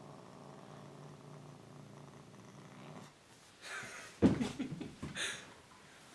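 Domestic cat making a low, steady, pulsing rumble, then louder hissing noises and a sharp cry about four seconds in: an annoyed cat.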